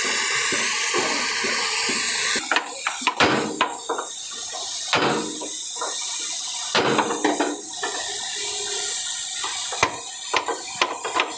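A steady hiss, then from about two and a half seconds in, a series of sharp, irregularly spaced hammer blows on metal, as in riveting a truck chassis by hand.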